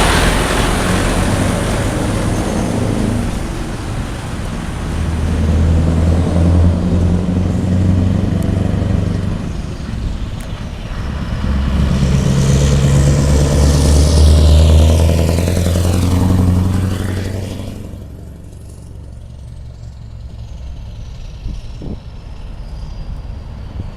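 Scania R620 truck's V8 diesel pulling hard past, its deep engine note swelling under load twice with a brief dip between. After about 18 seconds the sound falls away as the truck moves off.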